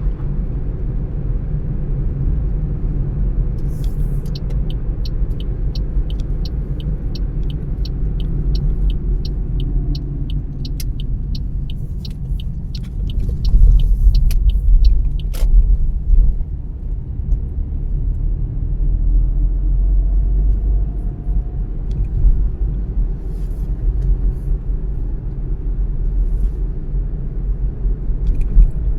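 Car driving along with a steady low rumble of road and engine noise. For about ten seconds a light, regular ticking comes in at about two ticks a second, ending with a sharper click.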